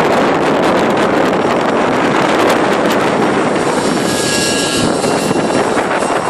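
Strong wind buffeting the microphone with a dense rush. Under it comes the whine of an Align T-Rex 600 nitro RC helicopter's glow engine and rotors, clearest about four seconds in.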